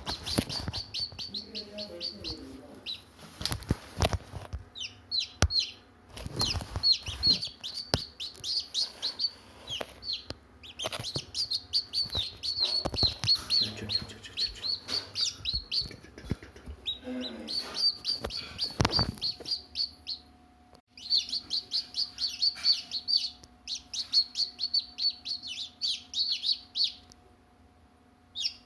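Baby chicks peeping in fast runs of short, high chirps that stop and start again, with a few loud knocks among them.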